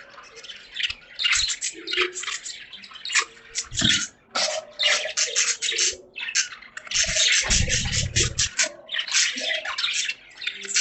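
Budgies chattering and warbling in fast, raspy, broken bursts with only brief pauses. A low thud sounds about four seconds in, and a longer low rumble about eight seconds in.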